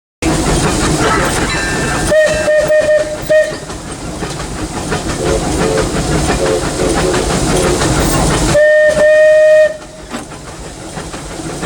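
Steam whistle of a Disneyland Railroad steam locomotive heard from the cab: a few short toots about two seconds in, then one longer blast of about a second near the end. Under it, the locomotive's steady running rumble and steam hiss.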